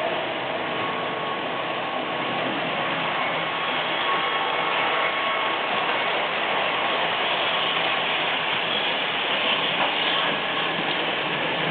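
Märklin model locomotive running along the track: a steady whir of its motor and gears with the rattle of wheels on the rails.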